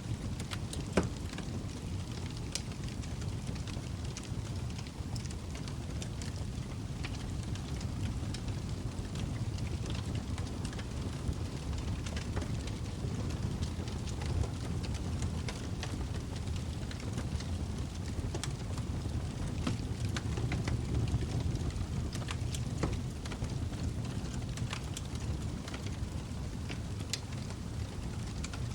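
Log fire in a fireplace burning, with irregular crackles and pops over a steady low rumble of flames. One sharper pop about a second in.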